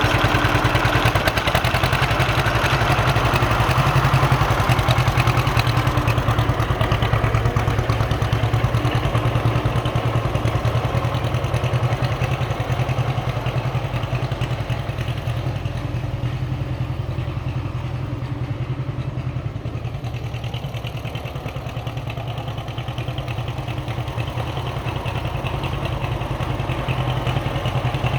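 John Deere H tractor's two-cylinder engine running steadily, its firing pulses making an even beat; it eases off slightly a little past halfway and picks back up near the end.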